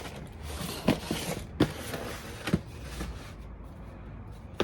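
Rustling and a few sharp knocks, four in all, as items are handled and set down on cardboard boxes; the rustling fades after about three seconds.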